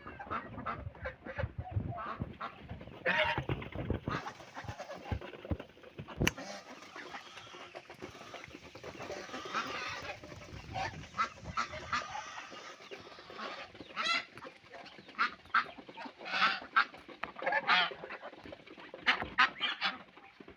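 A flock of domestic poultry calling while they feed: many short, overlapping calls, with scattered knocks in the first few seconds.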